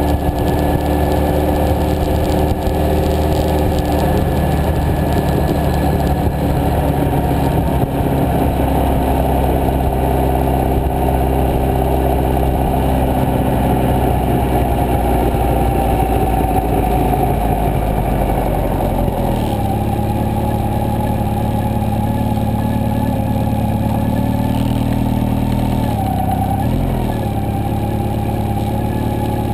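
Motorcycle engine running as the bike rides along a road. The engine note drops about two-thirds of the way through as the bike slows, with a brief dip and pickup near the end.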